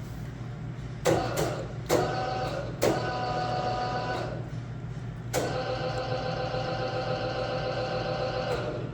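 Blanchard No. 11 rotary surface grinder's power down feed motor moving the wheel head: a few quick starts, each with a click, then a whining run of about three seconds, and after a pause a second whining run of about three seconds. A steady low hum lies underneath.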